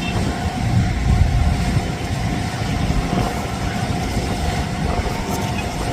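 Boeing 787 jet airliner's engines rumbling as it rolls out after touchdown, a steady low rumble with a faint constant hum above it.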